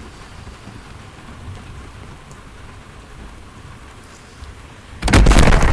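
Steady rain drumming on the motorhome, then about five seconds in a sudden, very loud crash right at the microphone, most likely the laptop with its webcam being knocked or falling.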